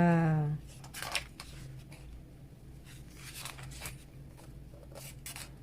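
Paper handling as the pages of a glossy album photo book are turned: a few short, crisp rustles and soft taps spread through an otherwise quiet stretch.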